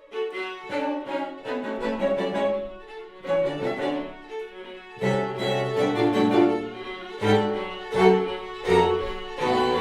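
String quartet playing a classical piece: a run of sharply attacked bowed chords with short gaps between them, the cello's low notes growing strong about halfway through.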